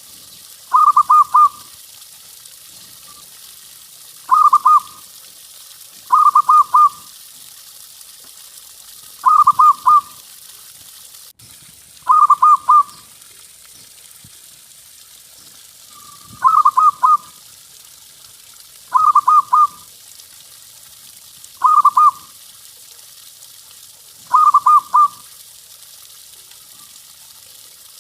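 Zebra dove (perkutut) cooing: short rolling phrases of three or four quick notes, repeated about every two to three seconds, over a faint steady hiss.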